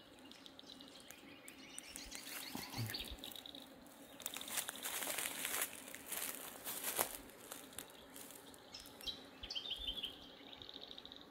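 Small birds chirping and trilling, with quick repeated high notes, against a quiet outdoor background. A spell of dry crackling and rustling, loudest around the middle, sits over the bird calls.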